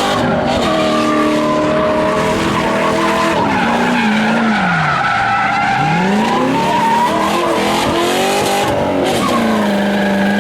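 A car engine held at high revs while its tyres spin and skid on the pavement. The revs fall away about four seconds in and climb again around six seconds.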